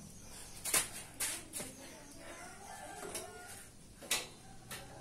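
A few sharp knocks and clicks, about five in all, with faint animal calls between them around the middle.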